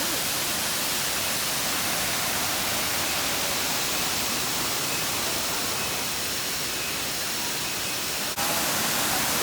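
Steady hiss of a waterfall pouring close by, mixed with heavy rain. It cuts out for an instant about eight seconds in.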